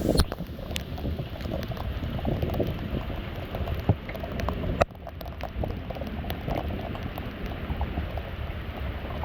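Thunderstorm rain pouring and pattering, with many sharp taps of drops striking close by. The whole sound drops suddenly in level about halfway through.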